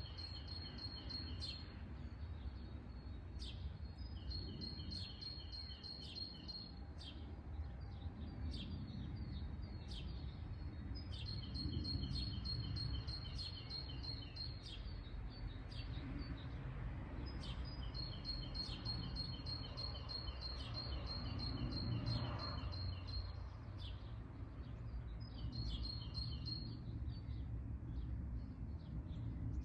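A songbird singing rapid trills of short, high, evenly spaced notes in phrases of one to four seconds, repeated again and again, with a few scattered single chirps in between, over a steady low rumble.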